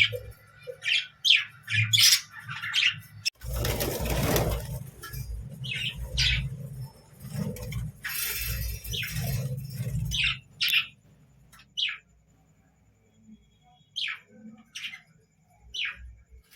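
Budgerigar giving short, scattered chirps, with a loud burst of rustling noise about four seconds in.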